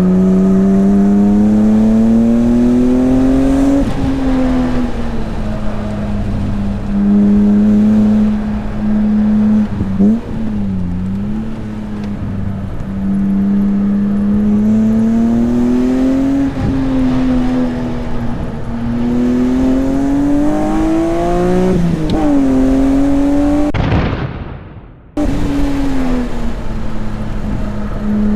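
An S54 3.2-litre straight-six in a BMW E36 M3 under hard track driving, its revs climbing and dropping over and over through gear changes and braking. Near the end the sound briefly fades away and then cuts back in abruptly.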